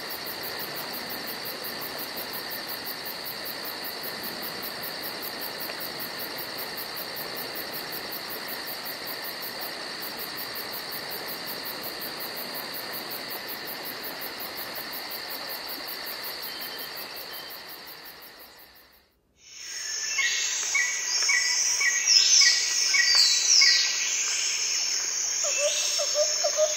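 Night insect chorus: crickets trilling steadily with a fast, even pulsing buzz, fading out about two-thirds of the way through. After a brief silence, louder bird-like chirps and quick whistled glides take over.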